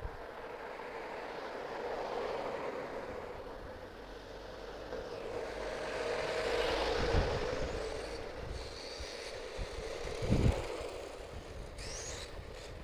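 HPI Savage XS SS Flux mini monster truck's brushless electric motor and tyres running on pavement, its sound swelling and fading as it drives past, louder about halfway through. Two low thumps come near the middle and about three quarters of the way in.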